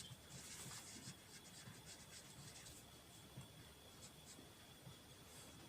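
Faint scratching of a pen writing out a calculation, in short irregular strokes that cluster about half a second to a second in.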